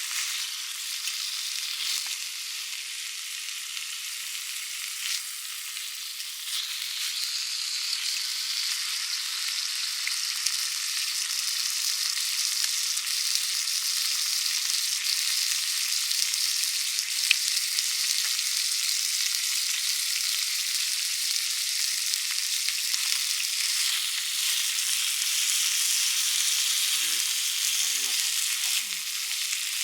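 Thick cut of beef sizzling steadily as it is seared again to cook the red centre through, growing a little louder after the first several seconds.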